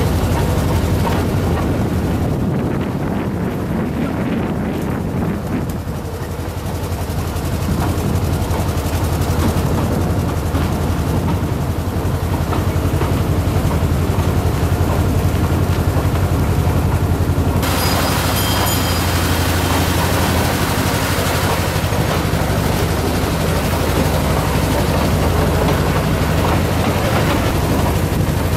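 Small tourist train running, heard from on board: a steady low rumble of engine and running gear. About two-thirds of the way through, a brighter hiss joins in.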